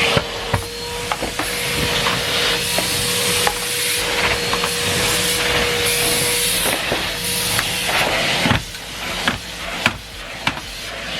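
Numatic Henry Pet cylinder vacuum cleaner running with a steady rushing noise and a motor whine, with scattered clicks and knocks as the nozzle works. The rush drops for a moment about eight and a half seconds in, then comes back.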